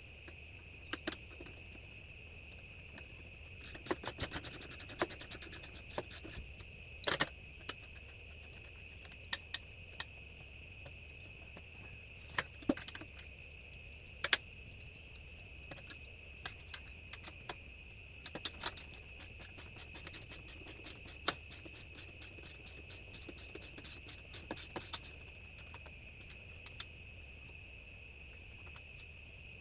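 Ratchet spanner clicking in two runs of rapid clicks, about four seconds in and again from about eighteen to twenty-five seconds, as bolts are undone on a kart chassis. Scattered single metallic clinks and knocks fall between the runs.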